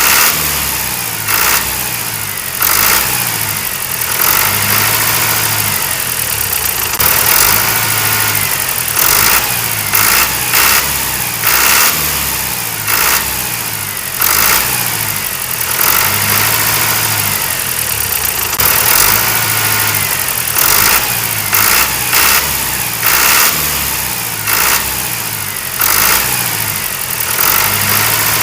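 A mini tractor engine running, its revs rising and falling, with a sharp clack about every second or so in a pattern that repeats over and over.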